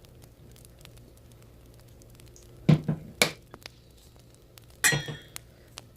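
Boiled mung bean sprouts being mixed in a bowl with sesame oil and seasoning: soft wet squishing and rustling, with a few sharp knocks against the bowl a little before halfway, around halfway and near the end.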